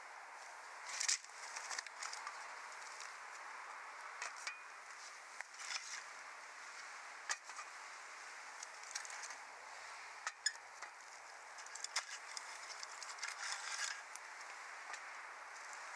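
Wood fire burning, with a steady hiss and scattered sharp crackles and pops that come in a few busier spells.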